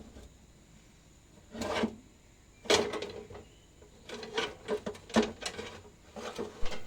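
Irregular metal knocks and scrapes of a sheet-steel oil pan being worked down off the engine, a couple of single clunks, then a quick run of knocks near the end; the pan is catching on the crankshaft and will not come out.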